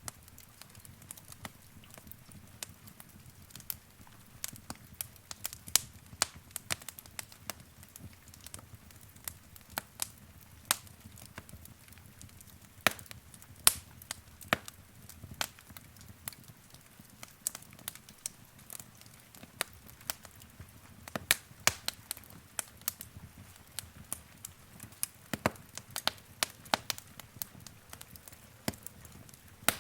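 Wood fire in a fireplace crackling, with irregular sharp pops and snaps, some much louder than others, over a low steady rush of the flames.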